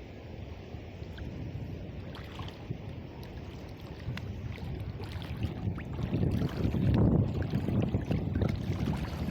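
Wind buffeting the microphone, a gusty low rumble over faint water splashing with small clicks, growing louder about six seconds in.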